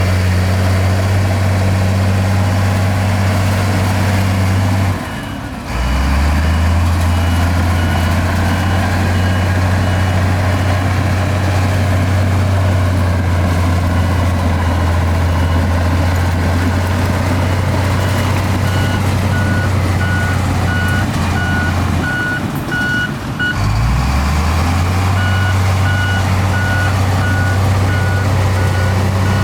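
Heavy diesel earthmoving machinery running at a steady low pitch, with a reversing alarm beeping at an even pace through much of it. The engine dips briefly twice, about five seconds in and near twenty-three seconds, then rises back in pitch.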